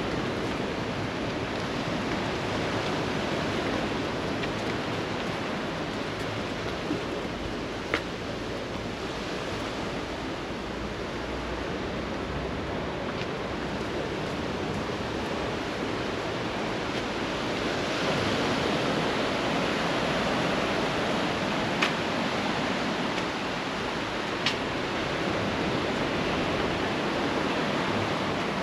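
Sea surf washing steadily onto the beach, swelling for a few seconds past the middle, with a few sharp clicks.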